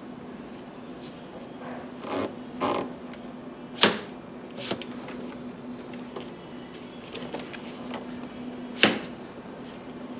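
Scattered sharp clicks and knocks of parts and tools being handled during car interior work, the loudest about four seconds in and near the end, over a steady low hum.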